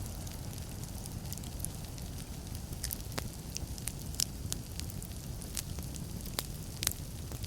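Wood fire burning in a fireplace: a low, steady rumble with scattered sharp crackles and pops, a few louder pops about three, four and six to seven seconds in.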